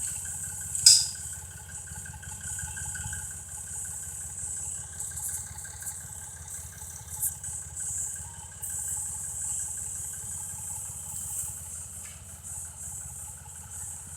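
Engine idling steadily, with one sharp click about a second in.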